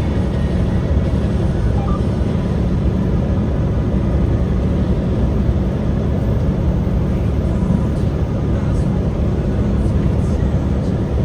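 Steady low engine and road noise of a truck driving along.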